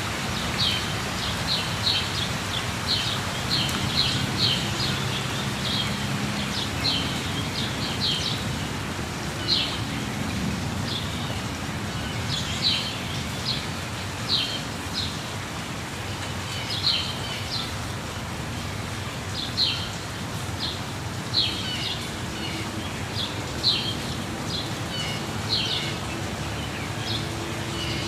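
Steady rush of a waterfall, with birds chirping over it: short, high notes repeating about every second.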